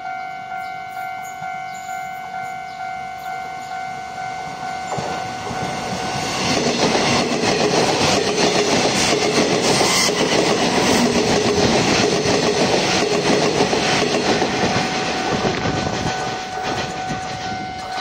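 Level-crossing bell rings with a steady, repeating tone. About six seconds in, a Taiwan Railway EMU500 electric multiple unit passes over the crossing as a loud rumble of wheels clattering on the rails, which fades near the end, leaving the bell ringing again.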